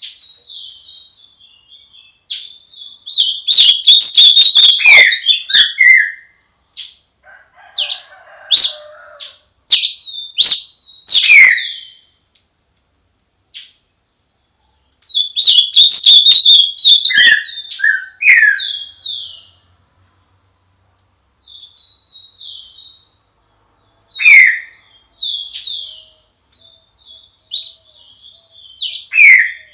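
Songbirds singing in a dawn chorus: loud phrases of rapid whistled chirps and falling notes, in bursts of a few seconds separated by short pauses.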